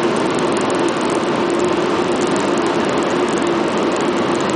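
Steady drone of automatic car wash machinery, most likely the drying blowers, heard from inside the car, with a constant hum under an even rushing noise.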